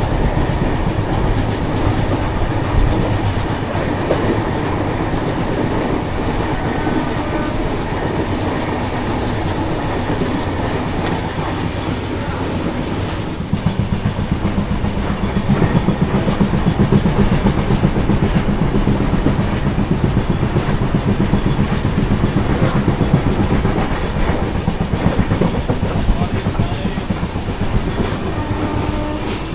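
Passenger train running at speed, heard from an open coach doorway: a steady rumble of wheels on rails with clickety-clack. About halfway through it gets louder and more rattly.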